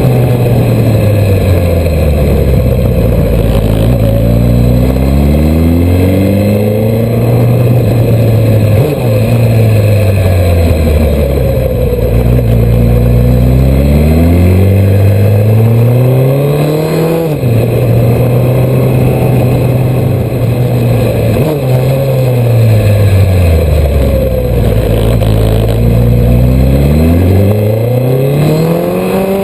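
Suzuki Hayabusa inline-four motorcycle engine under way, its pitch falling as it slows and rising again as it accelerates, several times over. About halfway through the pitch drops suddenly, then holds steady for a few seconds before falling and climbing once more.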